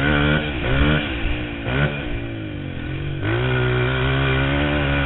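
Motocross bike engine revving hard, its pitch falling and climbing with the throttle several times in the first three seconds, then holding high and steady.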